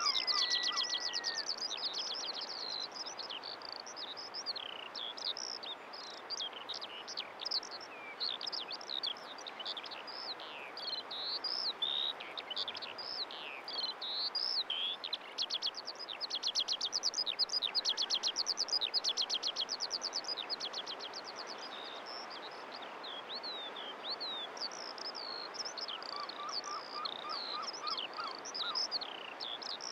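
Chorus of small songbirds: many overlapping high chirps, whistles and fast trills, over a steady background hiss.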